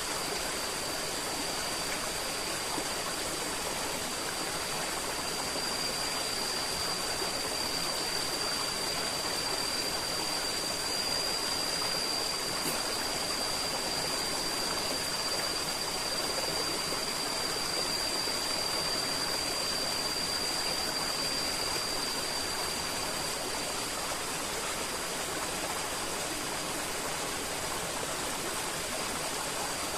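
River water flowing steadily in an even, continuous rush, with a thin, steady high-pitched tone held over it.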